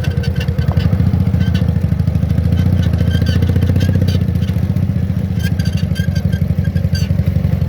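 Ural motorcycle's flat-twin engine running steadily with a loud, even low pulse.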